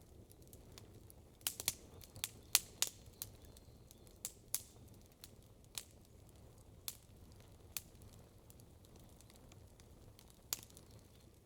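Wood campfire crackling: sharp separate pops, a quick cluster of them about one and a half to three seconds in, then single pops every second or so, over a faint low hiss of the burning fire.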